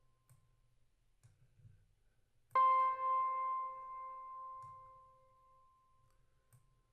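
A single piano note struck about two and a half seconds in and left to ring out, fading over about three seconds; the tail of an earlier note dies away at the start.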